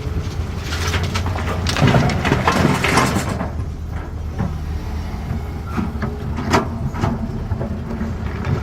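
A CAT 320D excavator's diesel engine runs steadily while stone clatters and scrapes in the bucket, loudest from about one and a half to three seconds in, followed by a few single sharp knocks.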